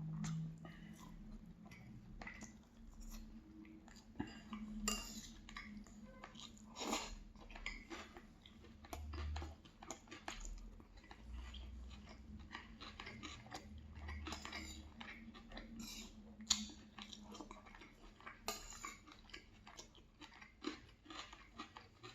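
Person chewing food, with cutlery clicking and clinking against a plate at irregular moments.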